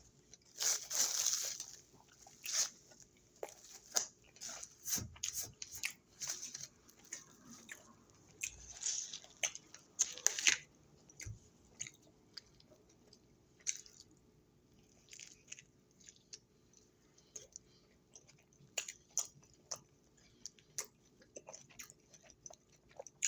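A person chewing and biting crunchy food close to the microphone: irregular crisp crunches, thicker in the first half and sparser later.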